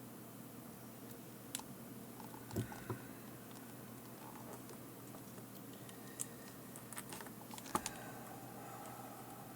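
Scattered light clicks and taps from small parts and tools being handled at a workbench during a headset repair, with a few louder knocks around three seconds in and again near eight seconds.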